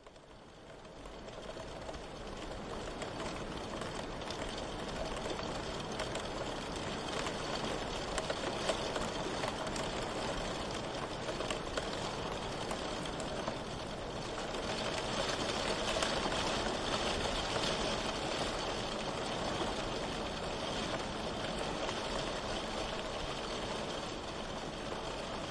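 Steady rain falling, a dense even hiss that fades in over the first couple of seconds and swells slightly a little past the middle.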